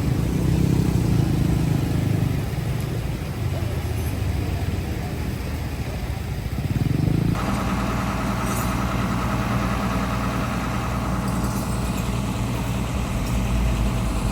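Vehicle engines running in stopped traffic. About halfway through, the sound switches abruptly to a single engine idling steadily.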